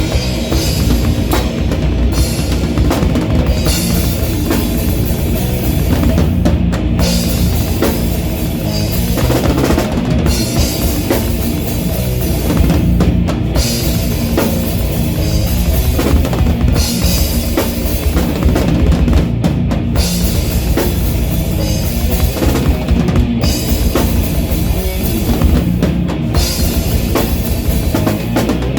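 A rock band playing live and loud, the drum kit to the fore: bass drum beating steadily under a constant wash of cymbals.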